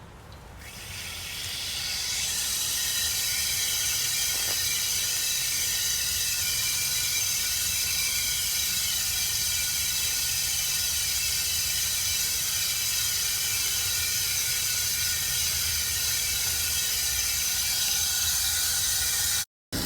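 Rain-O-Mat No. 302 quarter-circle stream spray irrigators spraying water: a steady hiss that builds up over the first two seconds and then holds. It cuts off suddenly near the end.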